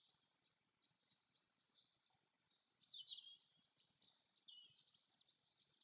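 Faint forest birdsong: a steady run of short, high chirps repeating about three to four times a second. About two seconds in, a louder bird sings a run of sliding, whistled notes that lasts until almost five seconds in.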